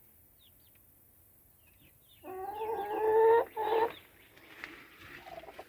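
A chicken gives a loud, drawn-out call about two seconds in, followed at once by a shorter one, after a few faint high chirps.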